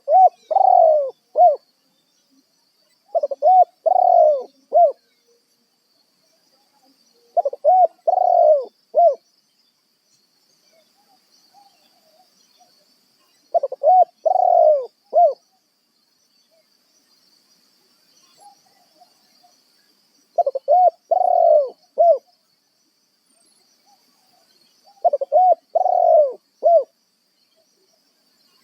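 Spotted dove cooing, a decoy bird calling to lure wild doves: six phrases a few seconds apart, each a short run of coos ending in a clipped final note.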